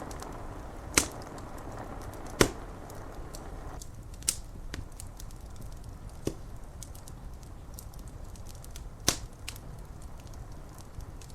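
Wood fire crackling: many small ticks and five sharp pops, the loudest two at about one and two and a half seconds in, over a low steady rumble. A rain hiss stops suddenly about four seconds in.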